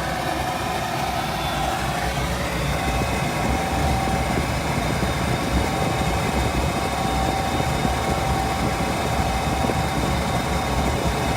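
Goodman gas package unit running in heat mode, a steady motor whir and low rumble with a faint tone rising about two seconds in, as the unit is cycled to check that it keeps lighting after an ignition fault.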